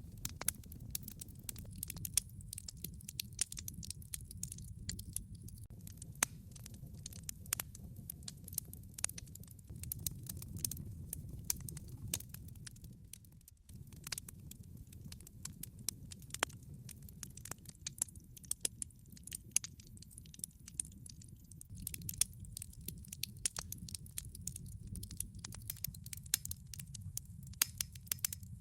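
Wood log fire crackling in a fireplace: frequent sharp pops and snaps over a steady low rumble of burning logs, the rumble dipping briefly about halfway through.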